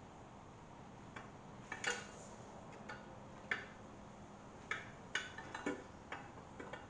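Irregular small metallic clicks and taps of hand tools and hardware on the engine's rear cover as a bolt is started and the alignment tool is worked into place, some clicks coming in quick little clusters.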